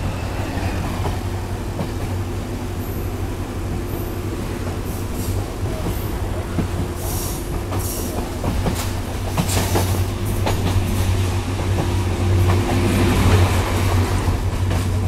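Passenger train running at speed, heard at an open carriage window: a steady low drone with the wheels clicking over the rail joints. The clicks grow busier and louder near the end.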